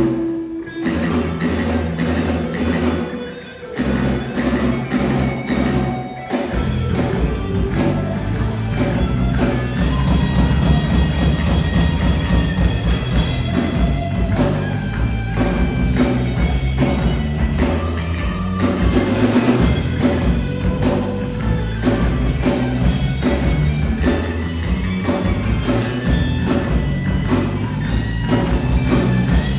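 A live rock band plays electric guitar, bass and drum kit. For the first six seconds the band plays in short stop-start phrases with brief gaps, then comes in together and plays on steadily.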